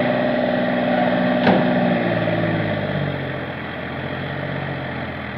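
Tractor diesel engine running under throttle, its pitch held high for about two seconds, then dropping to a lower steady note. A single sharp click about a second and a half in.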